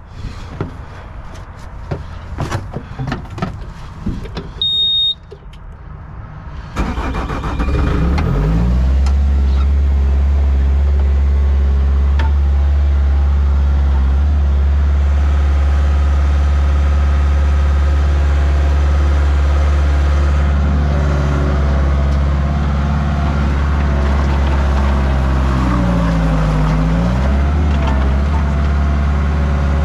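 An engine starts about seven seconds in, after a few knocks and a short high beep, then runs steadily, its pitch dipping briefly and recovering near the end.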